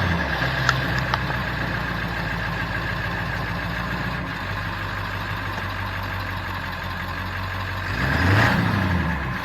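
Truck engine idling steadily, with one brief rev that rises and falls about eight seconds in.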